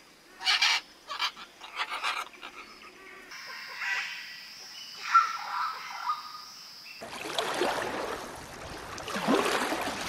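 A run of different bird calls cut one after another: several loud, harsh squawks in the first three seconds, then softer calls over a steady high-pitched drone, then a rough, noisy stretch from about seven seconds in.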